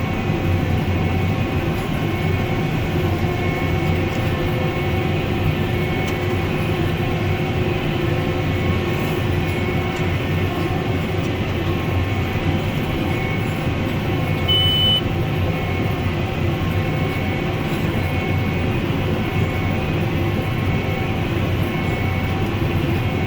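Case IH Magnum 310 tractor running steadily under load while pulling a Case IH LB436 high density baler. One short high beep sounds about two-thirds of the way through.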